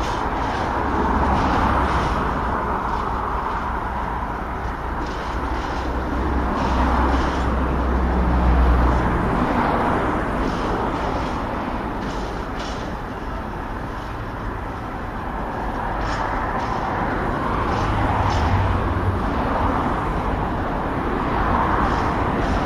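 A freight train of loaded tank wagons rolling past at low speed: a steady rumble of wheels on rail with irregular clanks and clicks from the wheels over rail joints and pointwork.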